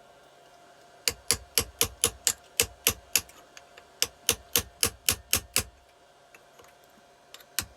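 Hammer tapping a chisel to knock back the metal locking tab on a camshaft sprocket bolt: quick sharp metallic strikes about four a second, in runs of several blows with short pauses between.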